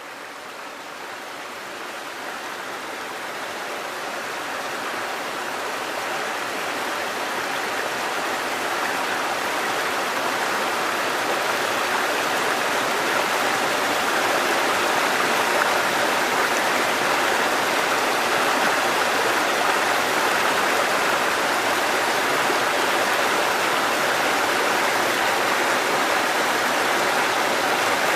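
Cascading water, a mountain stream running over rocks, giving a steady, even rush. It fades in over the first ten seconds or so, then holds level.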